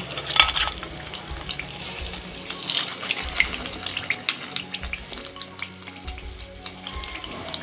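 Battered brinjal slices shallow-frying in a pan of hot oil: a steady sizzle dotted with many small crackles and pops.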